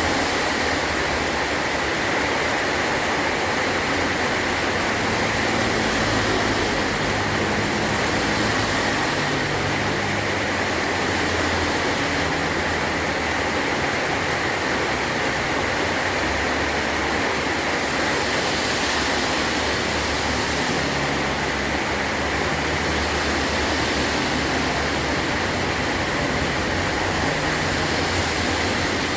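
Heavy rain falling steadily on a metal roof, an even unbroken hiss.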